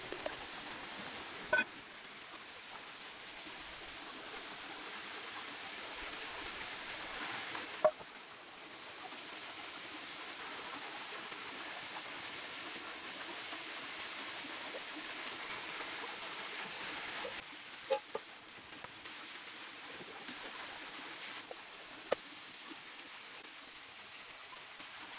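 Cooking over a campfire: a steady hiss with a few sharp pops scattered through it.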